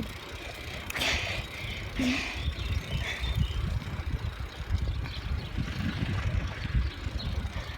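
Wind rumbling on the microphone of a camera carried on a moving bicycle, with road noise from the ride.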